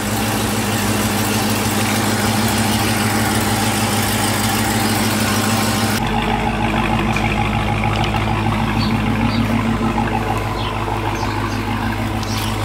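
Supercharged 6.2-litre Hemi V8 of a 2018 Dodge Charger Hellcat idling steadily, its exhaust too loud to be stock; the buyers suspect a mid-muffler delete.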